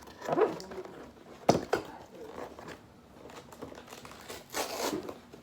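Toy packaging being handled and crinkled as it is worked open, with a sharp click about one and a half seconds in and a rustle near the end.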